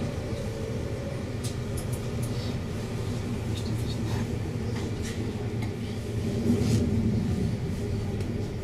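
Steady low rumble of a Koleje Mazowieckie electric passenger train, heard from inside the carriage, with scattered faint clicks.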